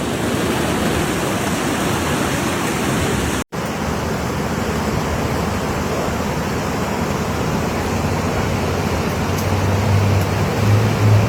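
Steady rushing of floodwater, cut off for an instant about three and a half seconds in. A low hum joins it near the end.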